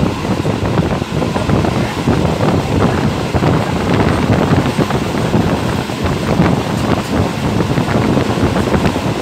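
Wind buffeting the microphone, held out of the window of a moving passenger train, over the steady running rumble and rattle of the coach.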